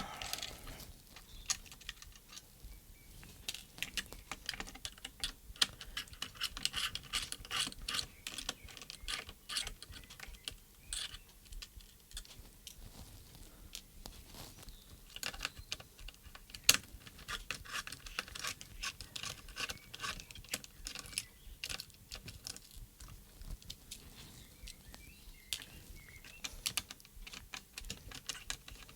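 Irregular small clicks and taps of plastic and metal parts being handled while a gimbal is worked out of a RadioMaster Zorro transmitter's case, with one sharper click about 17 seconds in.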